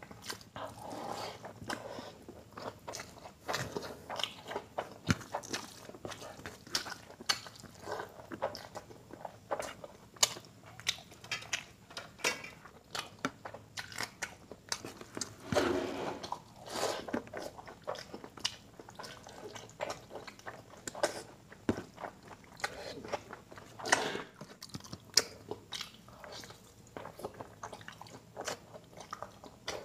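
Close-miked mouth sounds of a person eating rice, mutton curry and dal by hand: wet chewing with frequent sharp lip smacks and clicks. There is a louder burst about halfway through and another some eight seconds later.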